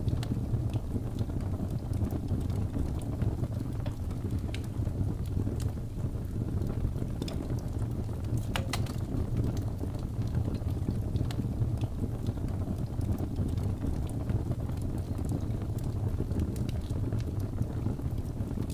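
Campfire burning: wood crackling in scattered small pops over a steady low rumble, with a quick run of louder pops a little before halfway.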